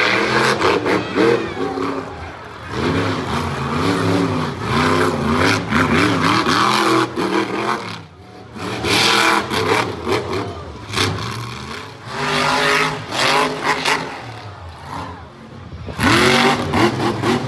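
Monster truck engine revving hard in repeated bursts, pitch rising and falling, with brief lulls about halfway through and again near the end.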